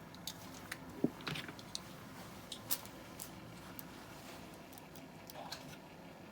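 Faint scattered clicks and taps of small diecast model cars being handled and set down, most of them in the first three seconds.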